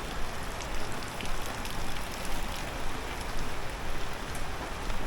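Steady rain falling, an even hiss with many small scattered ticks of drops hitting surfaces.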